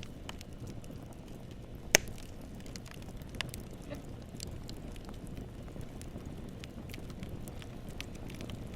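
Wood campfire burning with a low steady rumble and scattered crackles and pops, one sharp loud pop about two seconds in.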